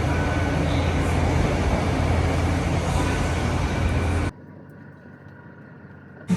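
Steady, loud rumble of vehicle or traffic noise, heaviest in the low end. It cuts off abruptly about four seconds in to a much quieter background hum.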